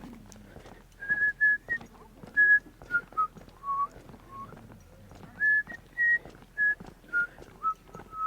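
A person whistling a tune: a string of short, clear notes stepping up and down in pitch.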